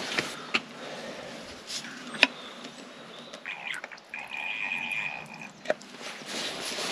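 A few sharp, scattered clicks and taps, with a bird calling a little past the middle: a short chirpy phrase, then one steady high whistled note held about a second and a half.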